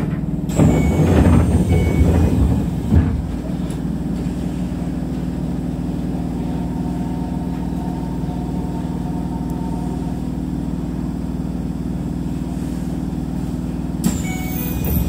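Steady hum of a Keisei electric commuter train's equipment heard from the driver's cab while it stands at a platform, with a short burst of air hiss and clatter about half a second in and again near the end.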